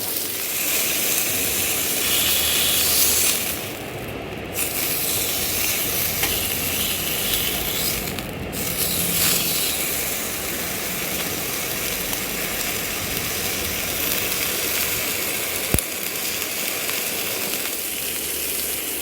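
Food sizzling steadily in a hot pan over a fire, a constant frying hiss. The high part of the sizzle drops away briefly twice, about four and eight seconds in, and there is a single sharp click near the end.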